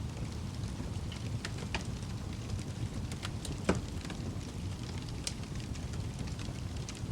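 Wood fire crackling in a fireplace: a steady low rumble of the flames with scattered sharp pops and crackles, one louder pop about halfway through.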